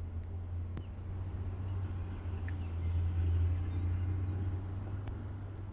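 Steady low engine hum, like an idling vehicle or machine, swelling a little about three seconds in, with a few faint bird chirps and light clicks over it.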